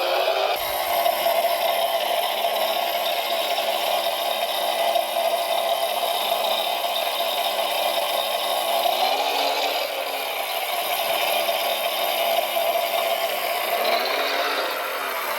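Small electric motors and gearboxes of radio-controlled construction models running with a steady whine and rattle. The pitch shifts as the motors change speed, around halfway and again near the end.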